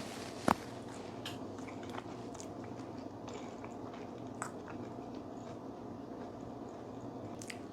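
A person chewing and eating roasted chicken wings, with small scattered mouth clicks and one sharp click about half a second in, over a faint steady hum.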